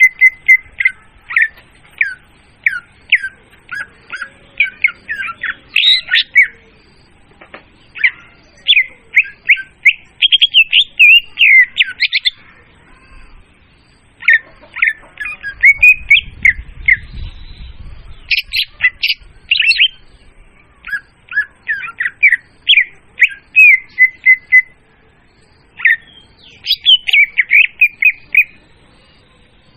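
Leafbird (murai daun) song used as a lure call: loud, clear phrases of rapid chirps and whistles, broken by short pauses.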